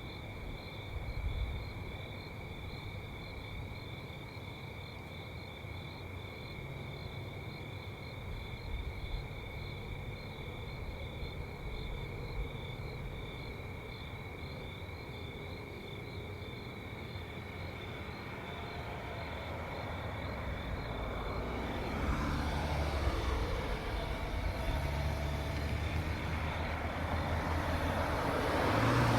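Steady chirring of insects, likely crickets, over a low rumble, then a motor vehicle approaching: its engine and road noise grow steadily louder over the last third.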